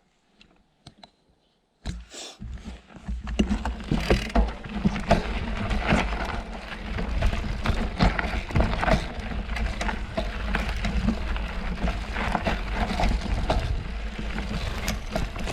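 Mountain bike riding over a dirt trail: tyre noise with many rattles and knocks over bumps, over a steady low rumble. It starts suddenly about two seconds in.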